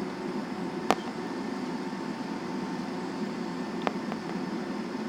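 Steady cabin noise inside a Boeing 737-800 after landing: engine and air-conditioning hum with a faint steady tone. Two sharp clicks stand out, about a second in and near four seconds.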